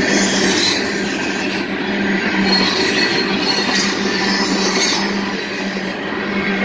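Covered hopper grain cars of a long freight train rolling past close by: a steady, loud rolling noise of steel wheels on the rails with a constant low hum.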